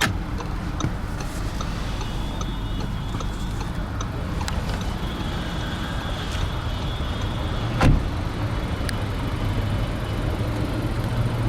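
Volkswagen Golf 1.4 TSI turbocharged four-cylinder petrol engine idling steadily, growing a little stronger near the end. A single sharp thump sounds about eight seconds in.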